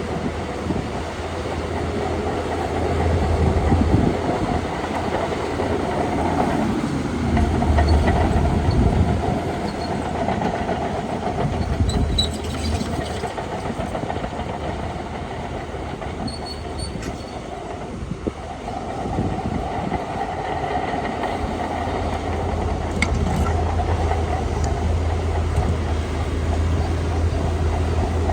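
Shantui DH17C2 Pro crawler bulldozer working: its diesel engine rumbles steadily while its steel tracks clank and rattle, the level rising and falling as it pushes dirt.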